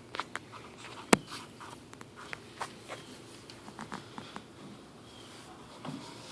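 Young bearded dragon snapping up and chewing mealworms: irregular small clicks and crunches, with one sharp louder click about a second in.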